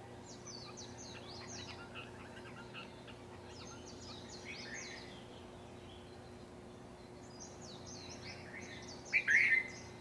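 Songbirds chirping in a dawn chorus: three bouts of quick, high chirps, with a louder, lower call just after nine seconds in. A faint steady hum runs underneath.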